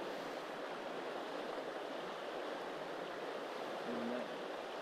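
A slightly high river rushing steadily over rocks through pocket water.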